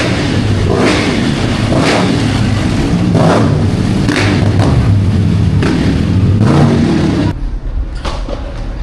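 A car engine revving hard, its pitch rising and falling over and over, with sharp cracks about once a second. It cuts off suddenly near the end, leaving a quieter engine sound.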